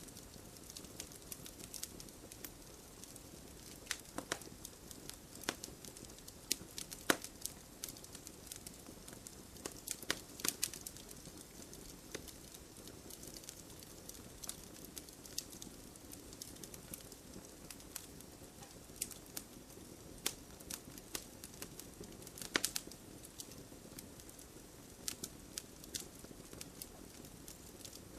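Campfire of burning wood crackling steadily over a soft low hiss, with irregular sharp pops, a few louder ones scattered through.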